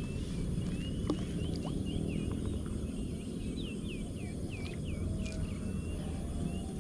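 Birds chirping over and over in short, quick hooked notes, above a steady low background noise. One light click about a second in.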